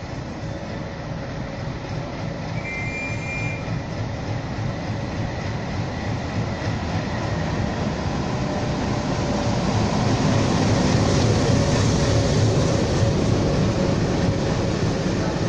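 Indian Railways diesel locomotive hauling a passenger train. Its engine rumble grows louder as it approaches and passes close by, loudest about ten to twelve seconds in, with the coaches rolling past after it.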